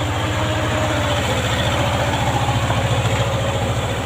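Kobelco SK03 mini excavator's diesel engine running steadily, with a rapid, even low beat.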